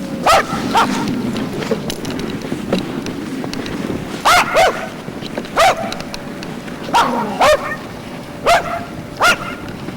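A dog barking about nine times, mostly in quick pairs with a second or more between them, over a steady background noise.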